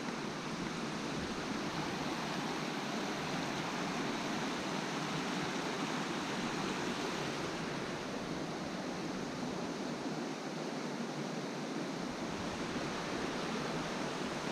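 A river rushing over small waterfalls and rapids: a steady, even rush of water.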